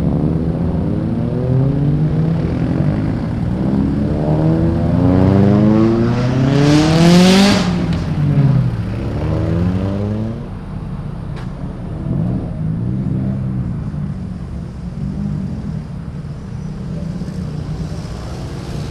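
Several cars pulling away and driving past one after another, their engines revving and changing pitch; the loudest passes close by about seven seconds in, after which the engines settle to a lower, quieter rumble.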